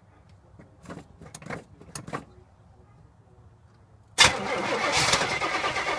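A few faint clicks, then about four seconds in the starter of a 1971 Oldsmobile Cutlass suddenly cranks the carbureted engine, loud and steady, with the gas pedal held to the floor. The engine does not catch yet.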